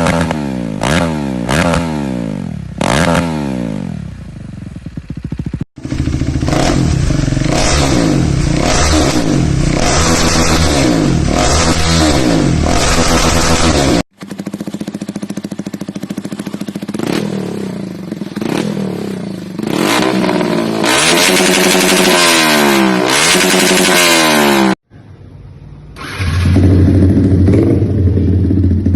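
Motorcycles with aftermarket exhausts being revved in repeated blips, the engine pitch rising and falling again and again. Several separate clips are cut together, with sudden changes of bike about six, fourteen and twenty-five seconds in.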